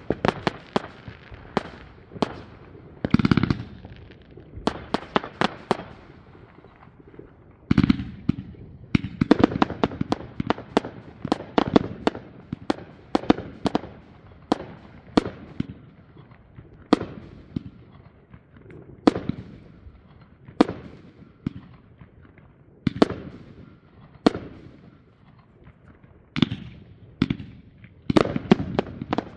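Fireworks going off: a steady run of sharp bangs at irregular intervals, with heavier booms about three and eight seconds in and spells of dense, rapid crackling, the thickest near the end.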